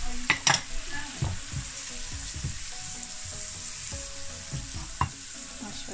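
Chopped tomato sizzling and frying in hot oil with garlic and spices in a non-stick frying pan, stirred with a silicone spatula that scrapes across the pan. There are a couple of sharp knocks about half a second in and another about five seconds in.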